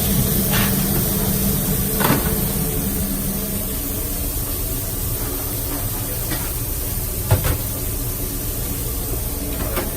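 Steady machine hum, with a few short knocks: one just after the start, one about two seconds in and a sharper one about seven seconds in.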